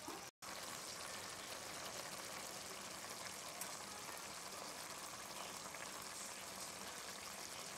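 Purple cabbage with bacon, onion and peppers frying in a pan: a steady, even sizzle with fine crackling, cutting out for a split second just after the start.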